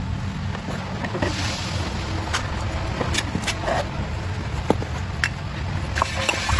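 An engine running steadily with a low, pulsing rumble, with scattered sharp clicks and knocks over it.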